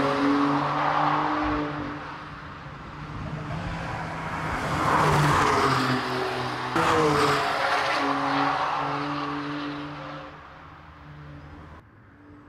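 BMW M4 Coupé's twin-turbo straight-six running hard as the car passes on the track, loudest about five seconds in. The engine note jumps abruptly about seven seconds in, then dies away to a faint hiss near the end.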